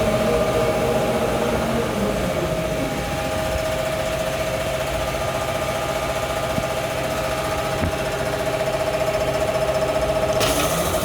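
Automatic pull-out tissue folding machine running steadily on test with no paper threaded, a steady whine over a low hum. Near the end a hiss comes in.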